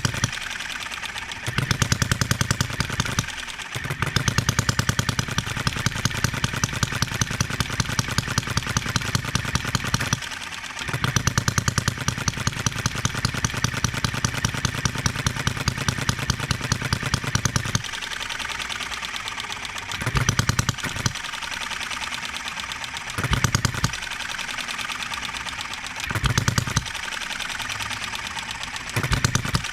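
Enjomor 6cc hit-and-miss model engine running with rapid, even firing strokes, in long strings while held under a light finger load. In the last third it fires only in short bursts a few seconds apart and coasts between them, the governor's hit-and-miss action.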